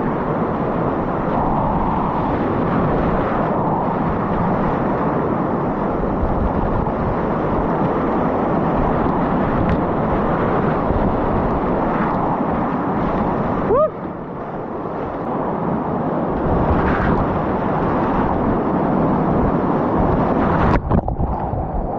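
Steady rushing roar of whitewater on a river, with a sudden dip about two-thirds of the way in and a couple of sharp knocks near the end.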